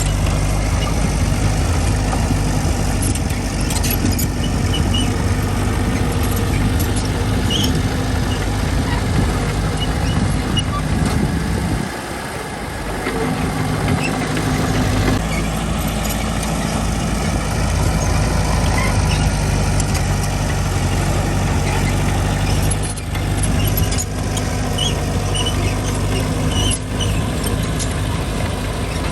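Heavy machine's diesel engine running steadily, easing off briefly about twelve seconds in before picking up again.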